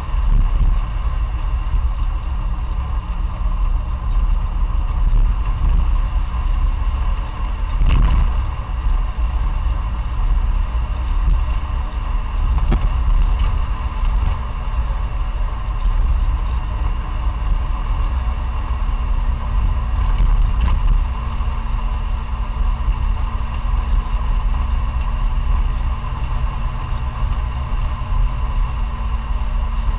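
Classic Fiat 500's air-cooled two-cylinder engine running steadily on the move, with a couple of short clicks about eight and thirteen seconds in.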